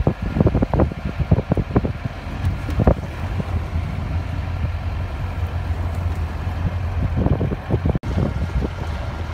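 Mahindra Roxor driving over a rough trail: a steady low drone of the running vehicle and wind on the microphone, with frequent knocks and rattles from bumps, thickest in the first three seconds and again near the end. The sound briefly cuts out about eight seconds in.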